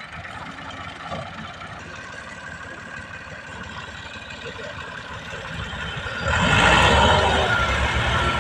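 Tractor engine running steadily, then getting suddenly much louder about six seconds in.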